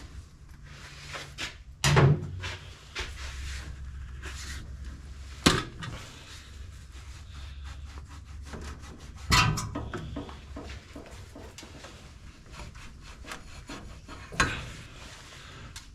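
Handling noises: rubbing and scraping with scattered clicks, and four sharp knocks about two, five and a half, nine and a half and fourteen and a half seconds in, over a low rumble that fades out about two thirds of the way through.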